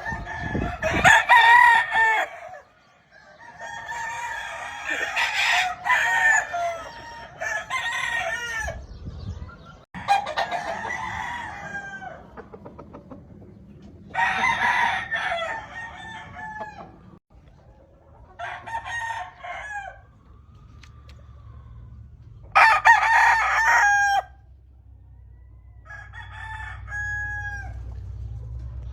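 Gamefowl roosters crowing one after another, about seven crows of a second or two each with pauses between them.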